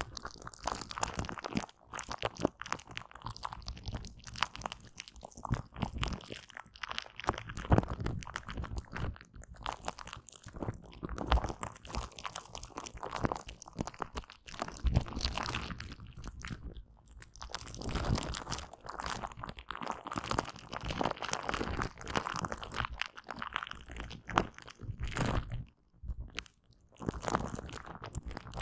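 Aloe vera gel being wiped and squished close to the microphone: dense, irregular wet crackling and sticky clicking that swells and eases in waves, with a few brief pauses.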